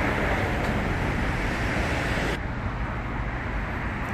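Steady noise of road traffic going by; the hiss turns duller a little over halfway through.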